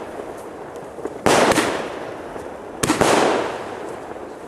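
Fireworks going off: two sharp bangs in quick succession about a second in, and another close pair about three seconds in, each trailing off in a fading crackle.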